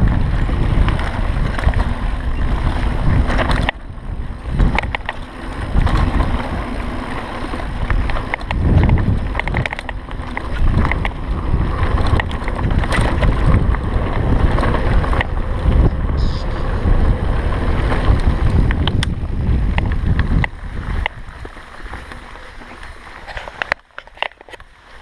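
Wind buffeting the camera microphone, with rattles and knocks from a mountain bike riding down a rough dirt singletrack. The sound drops noticeably near the end as the ride slows.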